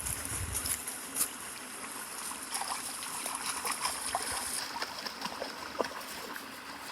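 Brook water running and trickling steadily, with scattered small splashes and clicks, and a brief low thump at the very start.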